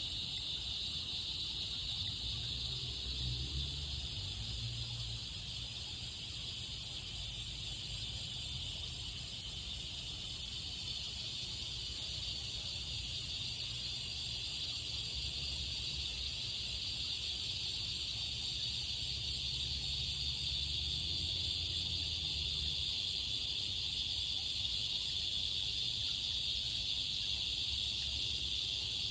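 Cicadas singing in a continuous chorus, a steady high-pitched buzz that grows slightly louder over the last several seconds.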